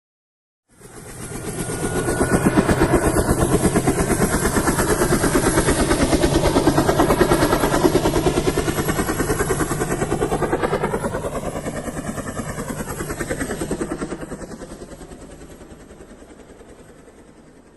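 Helicopter passing by, its rotor blades chopping in a fast, even rhythm. It builds up over the first couple of seconds and fades away over the last few.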